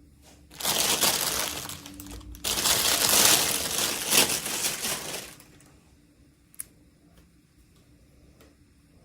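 Packaging being handled and unwrapped, crinkling loudly in two long stretches over the first five seconds, followed by a single small click.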